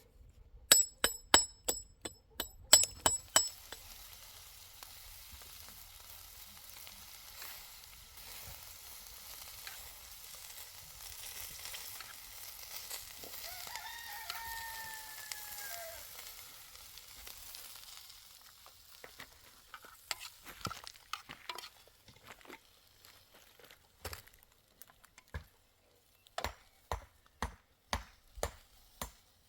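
Food sizzling in a frying pan, opened by a quick run of ringing metal clinks from a utensil on the pan. A rooster crows once about halfway through, and a run of sharp knocks comes near the end.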